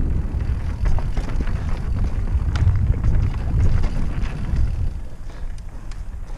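Downhill mountain bike riding fast down a rough trail: heavy wind rumble on the microphone, with scattered clicks and rattles from the tyres, chain and frame over rocks and roots.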